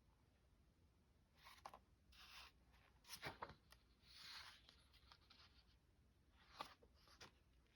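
Faint handling of craft paper: a few soft rustles and sliding swishes of paper, with a few light taps and clicks.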